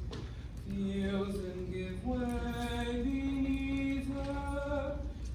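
Vocal ensemble singing held notes that step upward in pitch, each held about a second or more.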